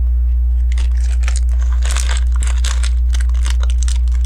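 Plastic Lego pieces and small plastic parts bags being rummaged through: a run of irregular clicks, rattles and crinkles that starts under a second in. A steady low electrical hum runs underneath throughout.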